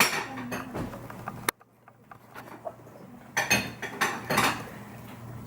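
Kitchen utensils and dishes clinking and clattering while glaze is mixed, with sharp clinks at the start and a cluster of them about three and a half to four and a half seconds in.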